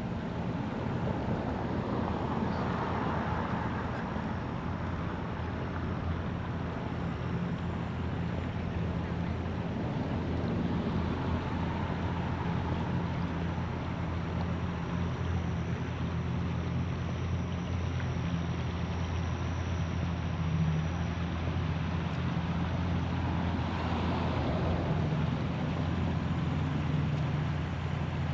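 The Juliet II riverboat's engine running as the cruise boat goes by: a steady low hum over the wash of water and wind.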